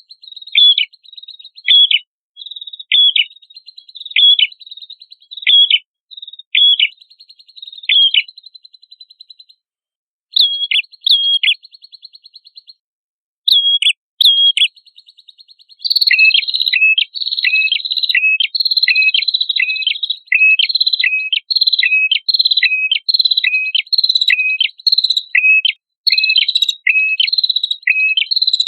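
Prenjak kepala merah songbird singing: sharp, high chirps with a downward hook, each trailed by a thin buzzy trill, repeated about once a second. About halfway through they turn into a faster, denser run of chirps.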